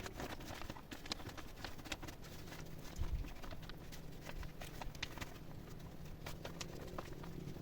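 Irregular light clicks and knocks, with a couple of dull thumps about three seconds in and again shortly after.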